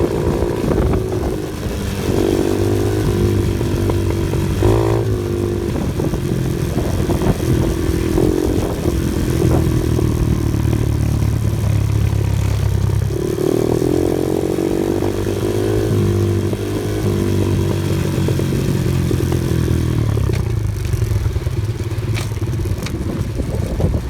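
An off-road vehicle's engine working over a rough trail, its pitch rising and falling again and again as the throttle is opened and eased off, with rattling and clatter from the bumpy ground.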